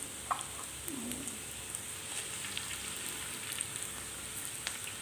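Garlic and red onion sizzling gently in hot oil in a wok: a steady frying hiss with scattered small crackles and a couple of light clicks.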